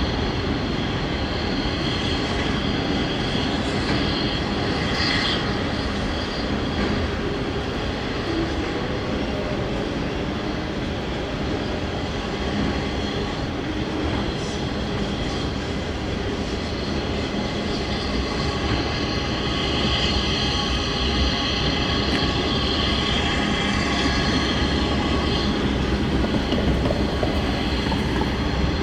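Union Pacific autorack freight cars rolling past, a steady loud rumble of steel wheels on rail. High-pitched wheel squeal comes in briefly about five seconds in and again, stronger, about two-thirds of the way through.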